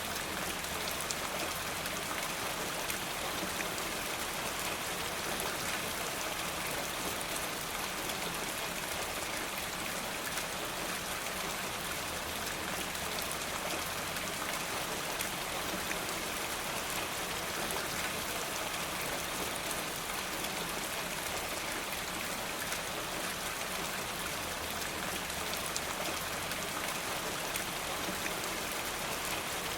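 Steady rain falling: an even, unbroken hiss with many fine drop ticks, unchanging throughout.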